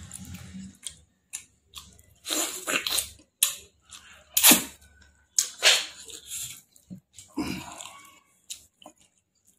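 Close-miked eating: a man biting and chewing chicken leg meat with his mouth open. Irregular wet chewing sounds and sharp mouth clicks come in separate bursts, with short pauses between them.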